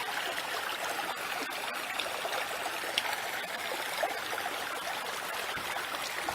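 Creek water flowing and babbling steadily over rocks, heard from a bridge above it.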